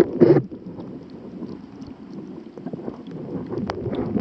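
Water sloshing and splashing with wind buffeting the microphone; a loud, low rumbling burst right at the start and a few sharp clicks near the end.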